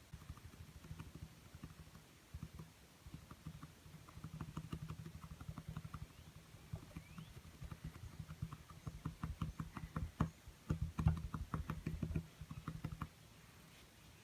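Paintbrush dabbing rapidly against a small canvas: a dense run of light taps, several a second, that stops about a second before the end.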